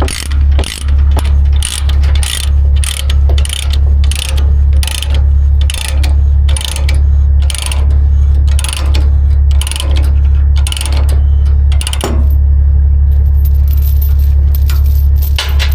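Ratchet chain binder being cranked to tighten a tie-down chain, clicking in quick strokes about twice a second until it stops about twelve seconds in. A steady low hum runs underneath.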